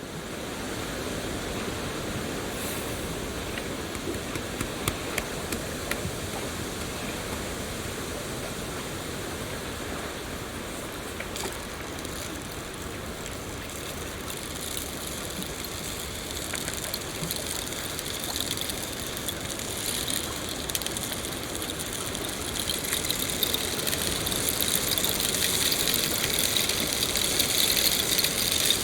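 Steady rain falling, an even hiss dotted with the patter of individual drops. The rain grows louder and brighter over the second half.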